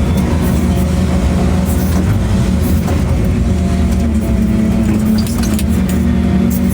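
Heavy diesel construction machinery engine running steadily at a constant pitch, with a few faint clinks near the end.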